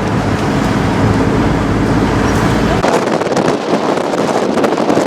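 Road vehicle engine and traffic noise, a steady low hum; about three seconds in it cuts abruptly to rustling wind noise on the microphone.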